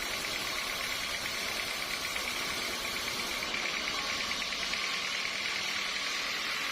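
Sawmill machinery running steadily: a continuous mechanical hum with a high, fast-pulsing whine over it.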